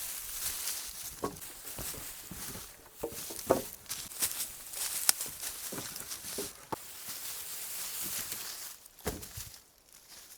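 Footsteps and rustling on forest-floor litter, with scattered light knocks and snaps of sticks at irregular intervals.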